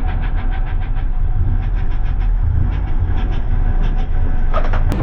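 A car running on a wet track, with a heavy low rumble and a fast, even ticking over it. A short high tone sounds near the end.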